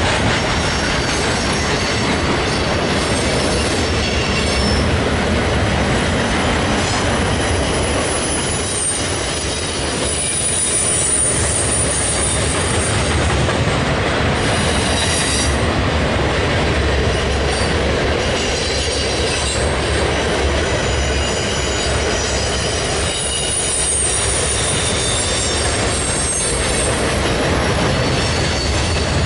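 Freight cars rolling steadily over a steel girder railroad bridge, with a low rumble and clatter of wheels on rail. High-pitched wheel squeal comes and goes.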